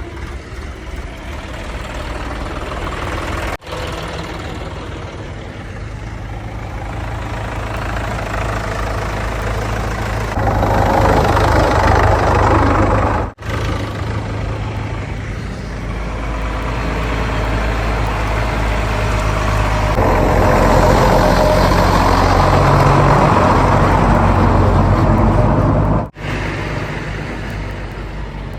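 Heavy diesel engine running steadily, revving up and working harder for a few seconds twice, with brief cut-outs in the sound between takes.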